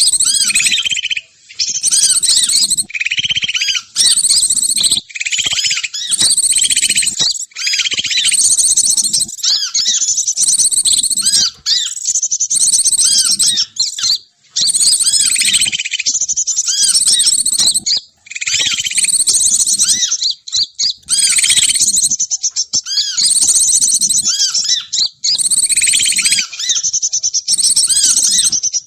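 Bird-lure recording of songbird calls: rapid high chirps and trills in bursts of a second or two with short gaps, repeating continuously. It is played to draw wild birds down for trapping.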